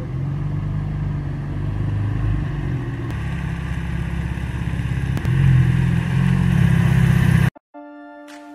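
A car's engine running as it drives up, its low rumble growing louder about five and a half seconds in, then cutting off suddenly near the end, where soft music begins.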